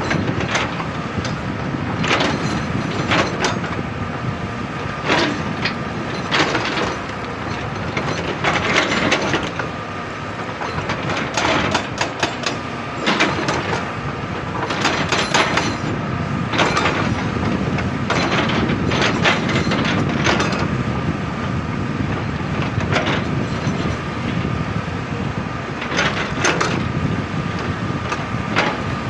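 Excavator digging into rock: its diesel engine runs steadily under load, with irregular cracking and clanking every second or two as the bucket strikes and breaks stone.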